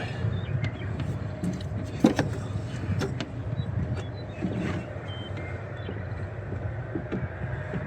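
Scattered clicks and light knocks of plastic clips and engine-bay parts being unclipped and handled, over a steady low hum.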